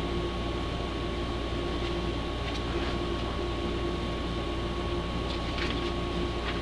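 A steady mechanical hum with a thin steady high tone, and a few faint brief high sounds over it.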